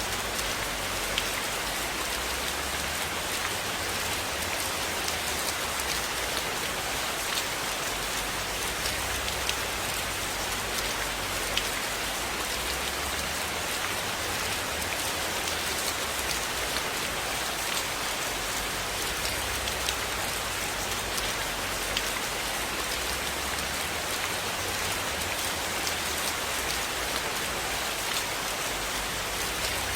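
Steady rain falling, a constant hiss with a dense scatter of small drop ticks and a faint low rumble underneath.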